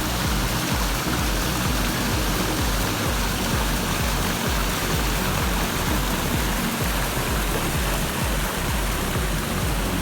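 Steady rush of falling water from an artificial waterfall, with music underneath.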